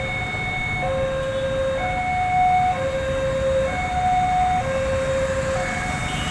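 Level-crossing warning alarm sounding a steady two-tone signal, alternating between a lower and a higher note about once a second, over a low rumble. It warns that a train is approaching or passing.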